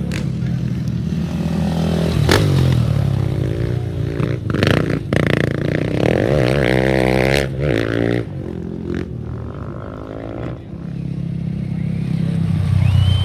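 Off-road race engines revving hard as machines pass, the pitch climbing and changing through the gears over several seconds around the middle. They drop quieter a little after halfway, then build again near the end.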